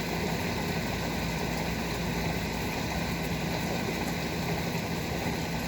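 Steady rain, with faint drop ticks and a low steady hum underneath.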